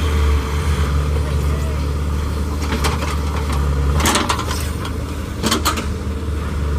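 Heavy diesel engine running steadily, with two sharp metallic clanks about four and five and a half seconds in.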